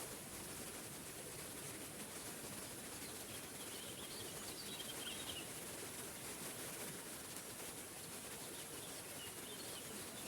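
Small forest waterfall rushing steadily, with a songbird chirping in short phrases about four seconds in and again near the end.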